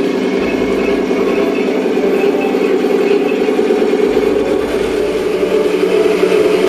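Simulated tank engine sound from a 1/16 RC tank's Tamiya full-operation sound unit, running steadily through the model's small speaker and rising slightly in level near the end.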